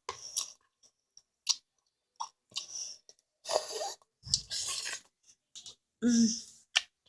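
A person chewing and eating close to the microphone: wet mouth noises and small clicks coming in irregular short bursts.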